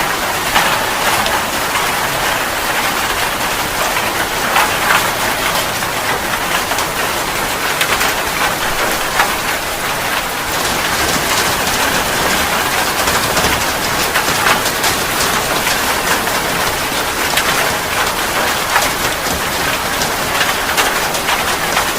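Steady heavy rain falling on a surface, a dense even hiss with many fine drop patters.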